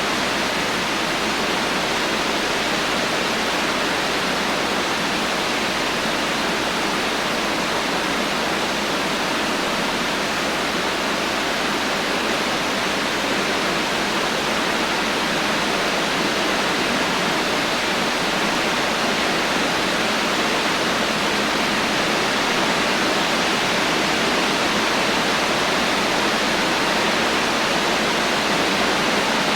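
Heavy rain falling steadily, an even hiss with no thunder and no single drops standing out.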